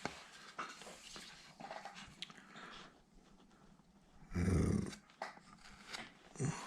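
Faint scraping of a woodcarving gouge cutting into wood in short strokes. A short, low, growl-like sound comes about four and a half seconds in.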